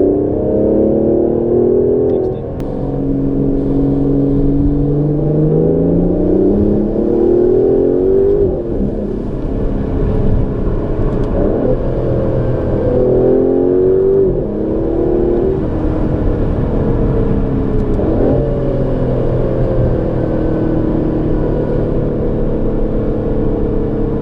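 Aston Martin DB11's twin-turbo V12 accelerating hard through the gears. The engine note climbs steadily in pitch and drops back at each upshift, with the longest pull running about six seconds, from the second to the eighth.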